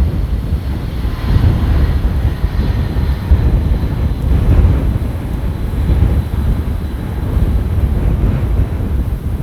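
Jet airliner engines heard over heavy gusty wind buffeting the microphone, with a faint steady high whine in the first half.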